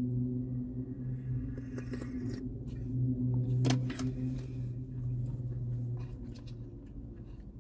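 Close-up eating sounds of egg-roll kimbap being chewed with closed lips: soft mouth clicks, with one sharper click about three and a half seconds in. A steady low hum sits under them and fades out about six seconds in.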